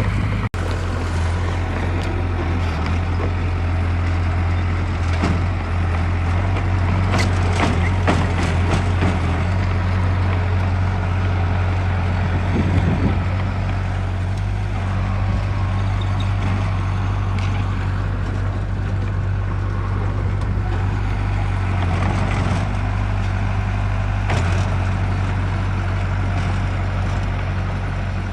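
Heavy diesel engine of construction equipment running steadily at a low, even pitch, with a few short knocks and clanks over it.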